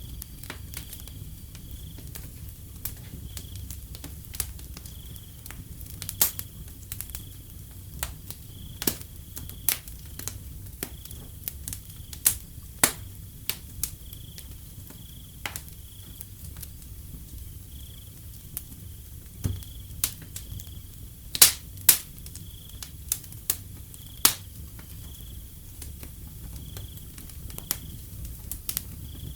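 Wood fire crackling, with irregular sharp pops and snaps over a low steady rumble, the loudest pair of pops about two-thirds of the way through. A cricket chirps faintly and evenly about once a second.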